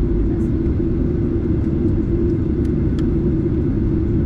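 Steady, loud drone of a Boeing 737-8 in flight, heard inside the cabin near its CFM LEAP-1B engine: a low, even rumble of engine and airflow noise with a hum near the top of it. A few faint ticks come about two and a half to three seconds in.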